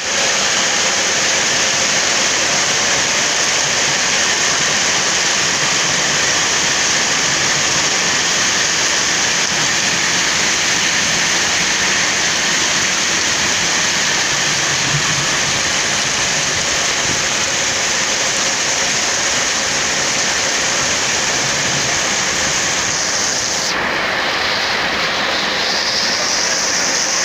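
Steady rain falling, an even hiss that holds constant throughout; its higher part drops away for a couple of seconds near the end.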